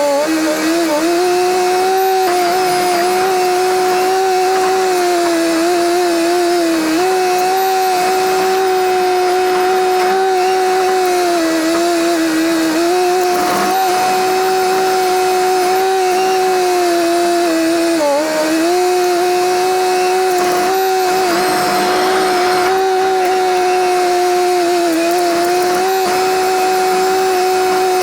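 Diesel engine of a small rubber-tracked Komatsu D21P bulldozer running steadily at high revs, its pitch sagging briefly every few seconds as it takes load while pushing fill.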